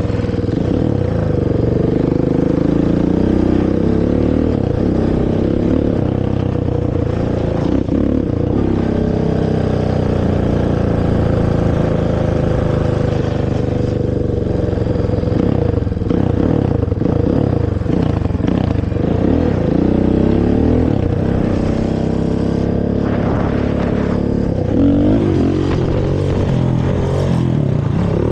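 Honda TRX450R quad's single-cylinder four-stroke engine through its stock exhaust, revving up and falling back again and again as it is ridden.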